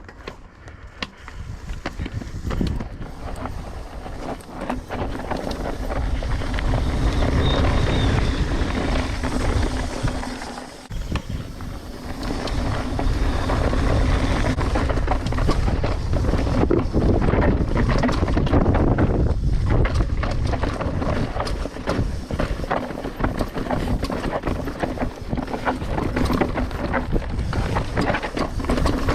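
Mountain bike riding over a rough dirt trail: a continuous rumble of tyres with dense irregular rattles and knocks from the bike, and wind rushing over the camera microphone. It eases off briefly about a third of the way in.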